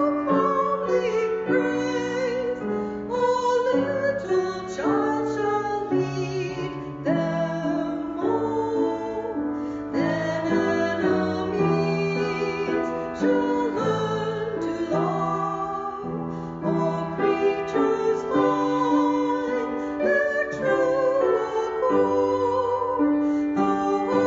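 Music: a woman singing a slow melody with piano accompaniment.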